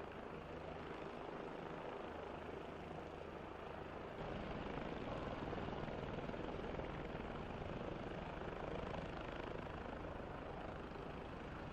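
Bell OH-58 Kiowa helicopter running: a steady rotor and engine drone that grows louder about four seconds in.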